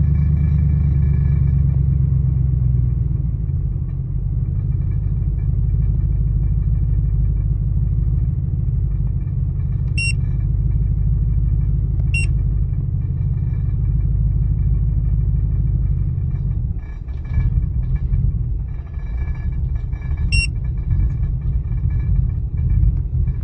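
2000 Ford Expedition's V8 idling with a rough, uneven idle; the rumble dips and wavers about three-quarters of the way through. Four short high beeps sound over it.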